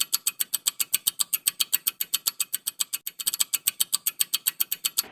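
Rapid, even ticking of a quiz countdown-timer sound effect, about eight sharp ticks a second.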